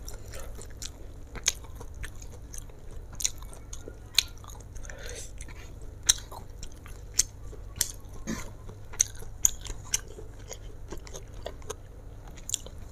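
Close-miked chewing of stir-fried flat rice noodles, with irregular sharp mouth clicks and smacks every second or so.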